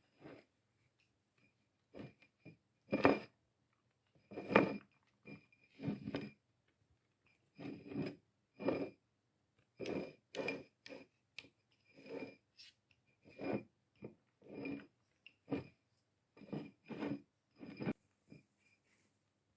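Dry peanuts in the shell clicking and rattling against a hard surface in short, irregular bursts, roughly one every second.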